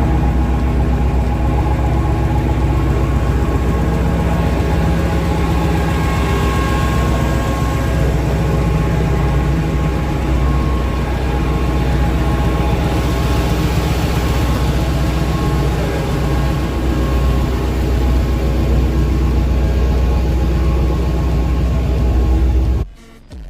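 Truck engine running steadily with a deep, low hum; the sound stops abruptly near the end.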